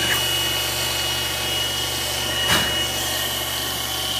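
CNC-converted X2 mini mill running a program, its spindle turning and the end mill cutting a circular profile: a steady low hum and a thin high whine over a constant grinding noise, with one short knock about two and a half seconds in.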